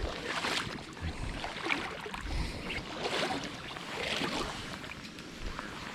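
River water sloshing and swishing in uneven surges, about once a second, around the legs of an angler wading.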